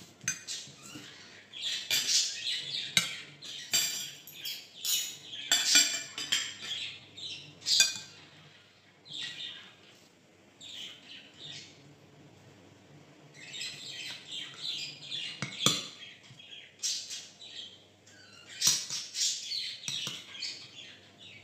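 A caged pet bird chirping and squawking in repeated bursts, quieter for a few seconds near the middle, with a spoon now and then clinking against a bowl.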